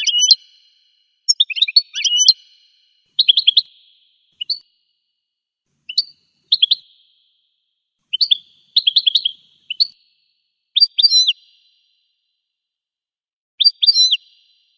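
Goldfinch song: about ten short phrases of rapid, twittering chirps and sweeping notes, each under a second long, separated by gaps of complete silence.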